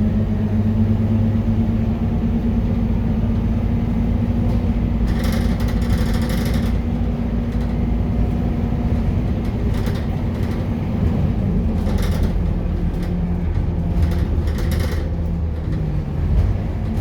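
Scania K230UB Euro 4 city bus's diesel engine running with a steady low drone, its pitch shifting a few times near the end. Brief hissing or rattling noises come and go over it.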